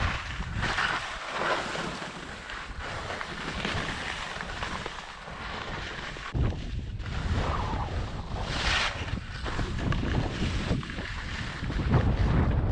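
Skis swishing and scraping over spring snow in repeated turns, with wind buffeting the GoPro's microphone; the low wind rumble gets heavier about halfway through.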